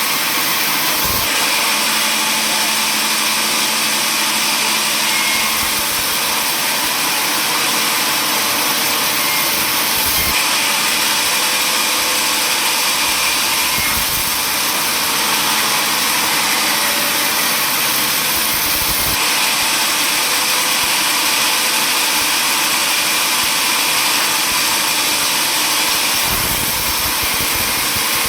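Power saw machinery running steadily, an even loud noise without pauses.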